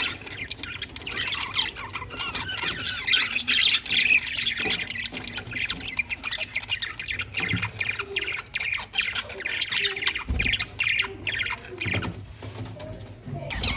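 Caged budgerigars chirping and squawking in a rapid, continuous chatter, with a few low thumps about three-quarters of the way in and near the end.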